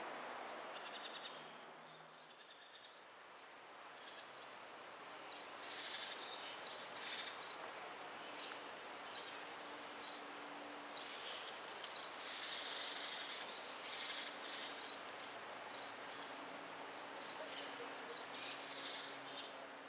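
Birds chirping in the garden: many short, high-pitched calls at irregular intervals, over a faint steady hum.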